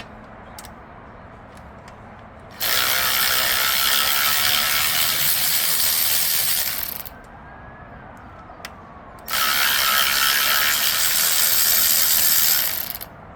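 Power ratchet spinning bolts out, in two long runs of about four seconds each with a pause of about two seconds between, the tool winding down with a falling whine after each run.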